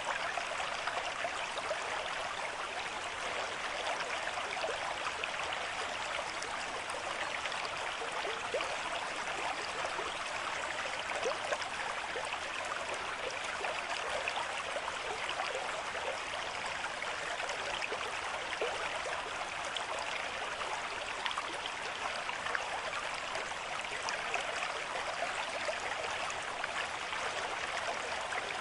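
Running water babbling steadily, with a dense, even patter of small splashes and no pauses.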